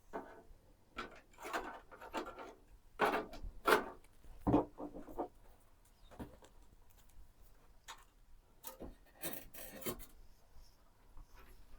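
Irregular rubbing, scraping and light clicking of computer parts being handled during assembly, with a few louder knocks about three to four and a half seconds in.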